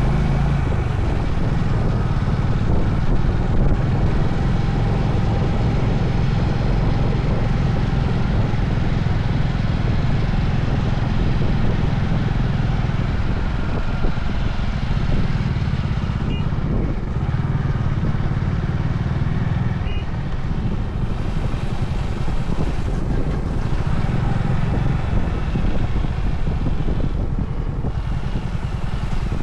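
Honda CB350 Highness's air-cooled single-cylinder engine running steadily under way, with road and wind noise.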